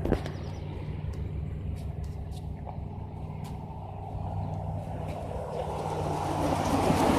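Motor vehicle engine running steadily with a low hum, with a short click at the start and a rush of road noise building over the last second or two.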